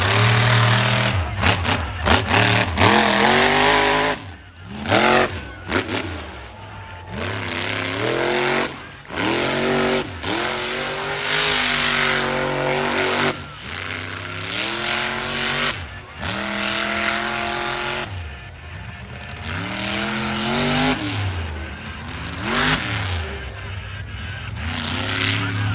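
Monster truck V8 engine revving hard again and again, its pitch climbing and falling with short lulls where the throttle is lifted.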